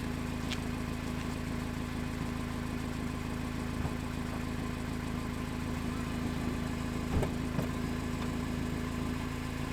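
An engine idling with a steady low hum and a few faint clicks.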